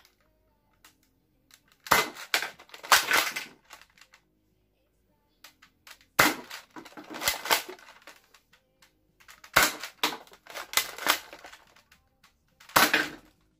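X-Shot Hurricane foam dart pistol being fired: four bursts of sharp clacks and clatter, about 2, 6, 9.5 and 13 seconds in, with near silence between them.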